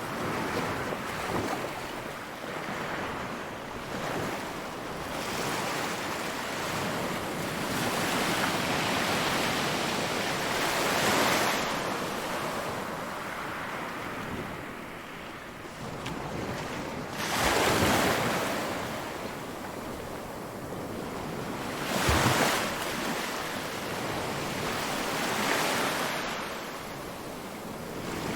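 Ocean surf: waves breaking and washing on a shore in a continuous rush, with a louder wave crashing every few seconds, strongest at about 11, 17 and 22 seconds in. Wind noise runs through it.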